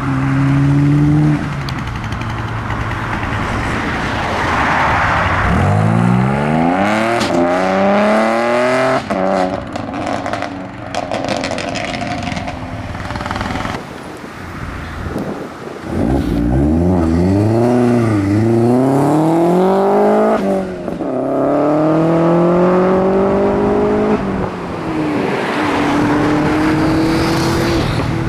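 Modified car engines accelerating away one after another, the pitch climbing as they rev, falling back at gear changes and climbing again, with a scatter of sharp cracks partway through.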